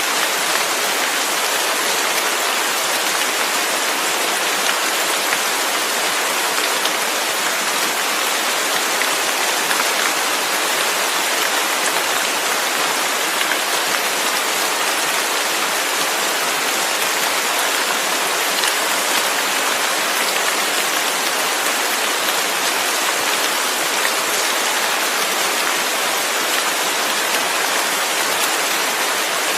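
Steady heavy rain falling, a dense even hiss of drops with no thunder and no single distinct drops.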